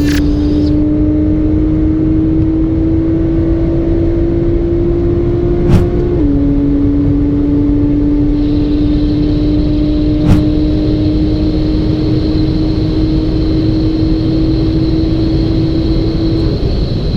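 A vehicle engine running at sustained high speed over heavy wind and road noise. It holds a steady pitch that steps down slightly twice, at the start and about six seconds in, as with upshifts. There are two sharp clicks, about six and ten seconds in.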